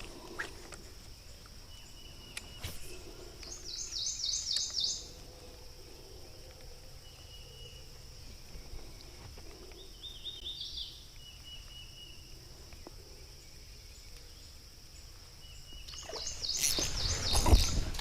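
Riverside bird song: a bird repeats a short, rapid phrase three times over a steady high-pitched drone, with a few faint clicks. Louder knocks and rustling come in near the end.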